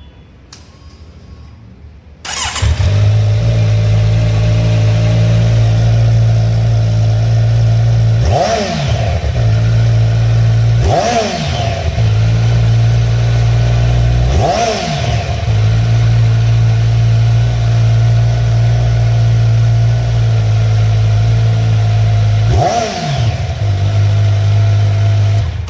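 2020 Kawasaki Z900's inline-four engine starting about two seconds in, then idling steadily through its stock exhaust. It gets four quick throttle blips, each a brief rise and fall in pitch.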